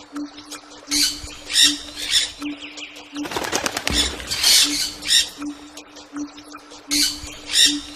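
Birds flapping their wings in short, irregular bursts, about seven of them, over a faint low pulsing hum.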